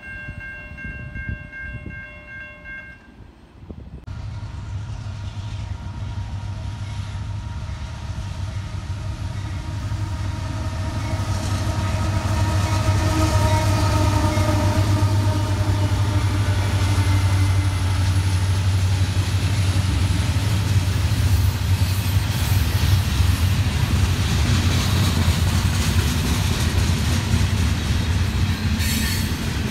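A train horn sounds for about three seconds. Then a diesel freight train comes in, its locomotive engines rumbling louder over the next several seconds and settling into a steady heavy rumble as the train rolls past.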